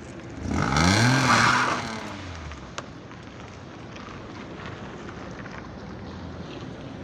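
Citroën C1's 1.0-litre three-cylinder VVT-i petrol engine, heard through its stock exhaust, revved once: the pitch climbs for under a second, falls back, and the engine settles to a steady idle. A single short click comes about three seconds in.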